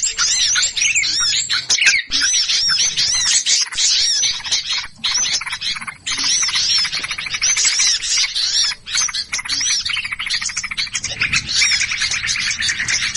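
A dense flock of small birds chattering excitedly, many rapid, overlapping high chirps and squawks at once: agitated alarm or mobbing calls of the kind used as a bird-lure (pikat) recording to draw small birds in.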